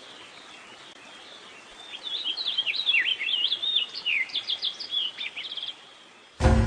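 A bird singing a fast, varied run of chirps, whistles and short trills that jump up and down in pitch. Music with a beat starts abruptly just before the end.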